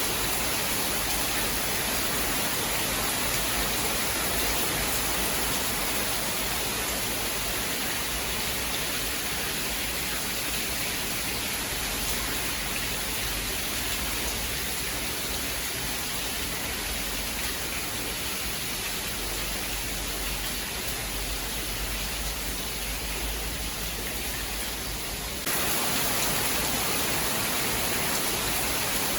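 Steady rain, a continuous even hiss. Near the end it turns abruptly a little louder and brighter.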